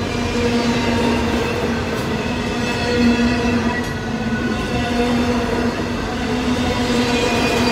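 Intermodal freight train's cars rolling past: a steady rumble of wheels on the rails, with tones that come and go over it.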